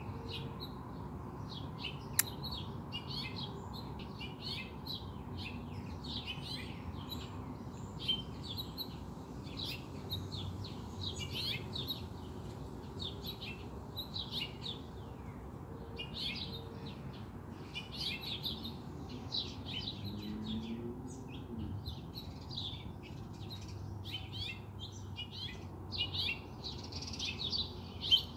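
Small songbirds chirping and singing without a break, many short high calls overlapping, over a steady low background noise. There is a sharp click about two seconds in and another near the end.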